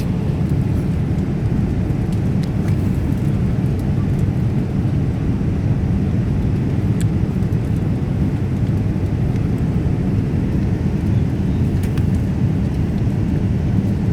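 Jet airliner cabin noise: a steady low rumble of engines and rushing air, with a few faint clicks.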